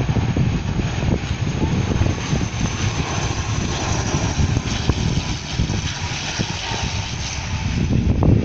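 Airplane engines running steadily during takeoff, a dense continuous rumble with a faint steady whine, with wind gusting on the microphone.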